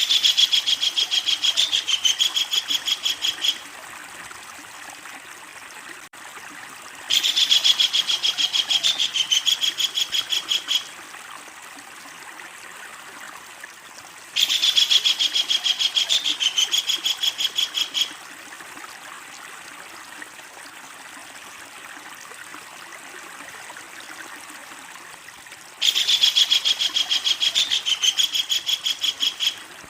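Kingfisher (tengkek udang) giving its loud, long cackling call: four bouts of rapid, evenly repeated notes, about ten a second, each lasting three to four seconds, with pauses of several seconds between them.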